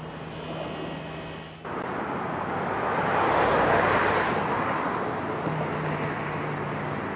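Outdoor traffic noise: a vehicle passes, swelling to its loudest around the middle and then slowly fading, over a steady low hum. About a second and a half in, the background changes abruptly.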